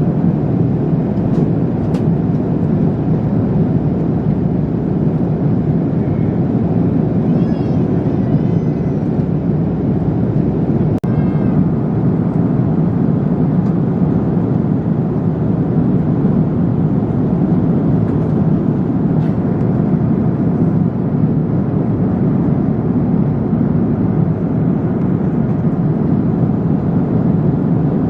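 Steady engine and airflow noise inside the cabin of a Korean Air airliner, a low, even rush. Faint voices come through about eight and eleven seconds in, with a brief click near eleven seconds.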